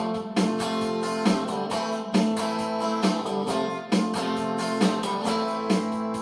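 Acoustic guitar strummed in a steady rhythm, with an accented stroke about once a second and the chord ringing between strokes.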